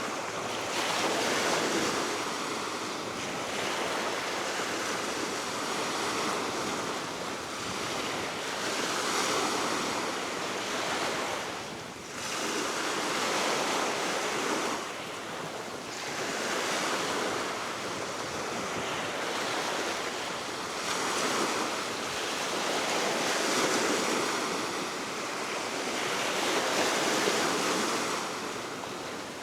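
Baltic Sea waves washing onto the shore, swelling and falling back every few seconds, under a steady wind.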